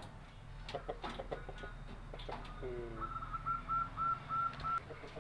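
Birds calling: a few clicks and a short low call, then a run of about six short whistled notes at one even pitch, about three a second.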